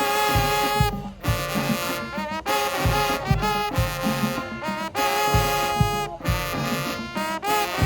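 High school marching band playing, brass horns holding chords in short phrases with brief breaks over steady bass drum hits.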